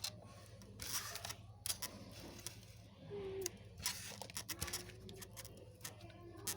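Faint, scattered small clicks and light handling noises of pins and tracing paper being set on a spreading board while a cicada's wings are pinned, with a couple of faint short squeaks.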